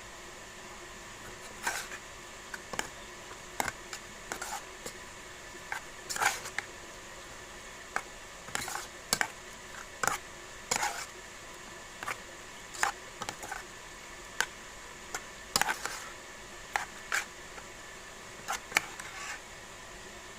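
Irregular light clinks and knocks of kitchen utensils against dishes, roughly one a second, over a steady hiss.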